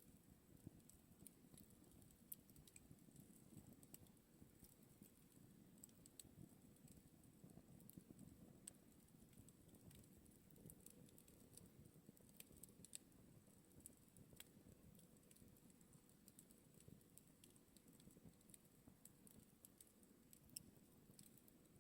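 Campfire burning faintly, with scattered small crackles and pops over a soft low rumble of the flames.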